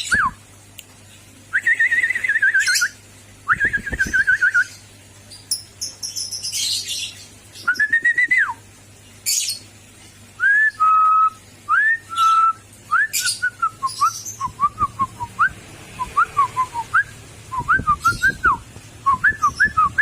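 A pet bird whistling: a string of short whistled notes that swoop up and down, a few held briefly, with sharp high chirps in between. The notes come in quicker runs of several a second in the second half.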